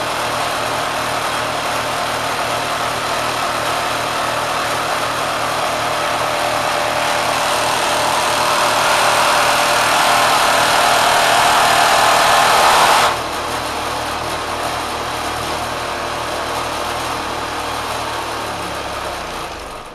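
Kenmore sewing machine driven by a swapped-in 3/4 hp motor, running flat out. The noise grows louder for several seconds, then drops suddenly about two-thirds of the way through, the moment the machine throws a rod. It runs on more quietly and stops near the end.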